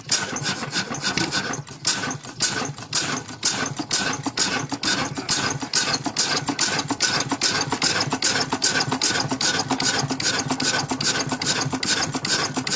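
Antique engine running steadily, with a rapid, even beat of about six strokes a second.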